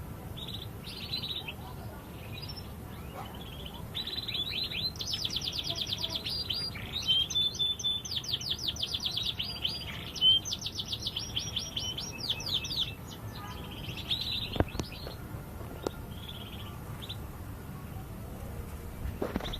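Domestic canary singing: scattered short chirps, then a long song of rapid trills lasting about nine seconds, then short chirps again.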